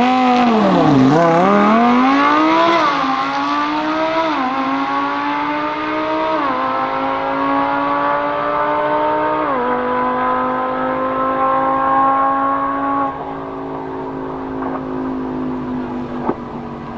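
Lamborghini Huracán LP610-4's V10 accelerating at full throttle from a standing start. Its pitch dips just after the launch, then climbs and drops back at each of four quick upshifts. The sound fades as the car pulls away, falling noticeably quieter about 13 seconds in.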